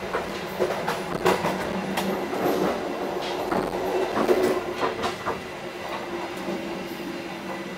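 Argo Parahyangan Premium passenger train running, heard from inside its toilet compartment: a steady rumble and hum with irregular clacks and rattles.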